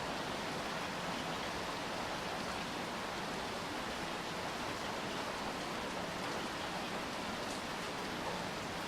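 Steady rainfall, an even hiss of rain with no single drops standing out.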